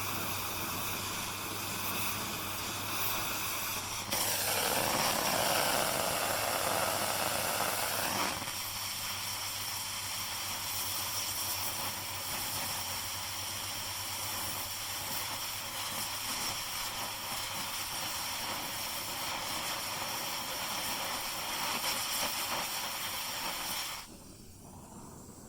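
Gas torch flame hissing steadily. It gets louder and fuller for about four seconds near the start, then cuts off near the end.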